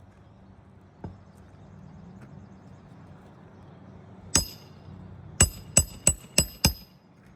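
Hammer striking a nail during an asphalt shingle repair: one blow, then a quick run of five blows, each with a short metallic ring.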